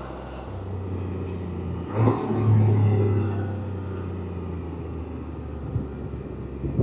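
Can-Am Spyder three-wheeler's engine running at road speed, picking up about two seconds in and then settling back to a steady note.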